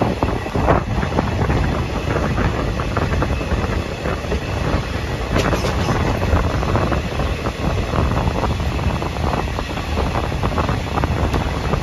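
Moving express train heard from on board: wheels clattering irregularly on the rails over a steady rush of wind on the microphone, with one sharper clack about halfway through.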